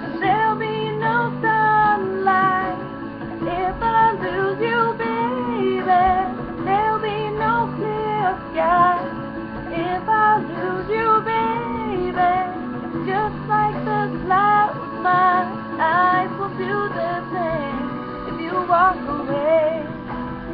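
A woman singing a pop ballad with instrumental accompaniment.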